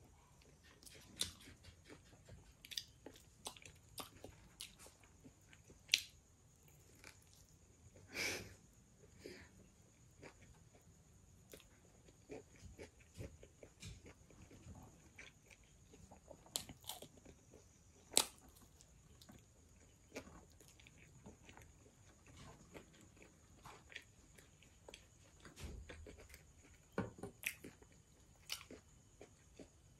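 Close-miked eating: chewing and biting into pizza crust, with irregular small crunches and mouth clicks, the sharpest about 6 and 18 seconds in. A faint steady high-pitched hiss runs underneath.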